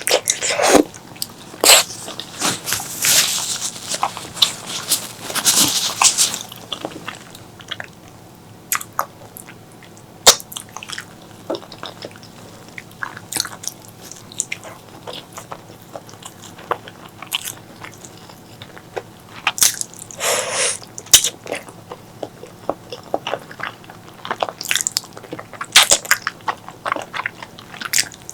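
Close-miked eating: chewing and biting into spicy pork leg curry with white rice, a run of many short clicks with a few longer, louder stretches about three to six seconds in and again around twenty seconds in.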